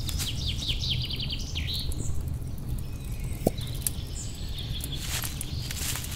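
Woodland ambience: a small bird gives a quick trill of high chirps in the first second and a half, over a steady low rumble. Near the end come footsteps in dry leaves.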